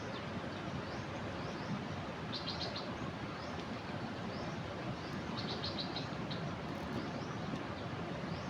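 Steady rush of a flood-swollen river, with small birds chirping over it: repeated short chirps and two quick trills of rapid notes, about two and a half and five and a half seconds in.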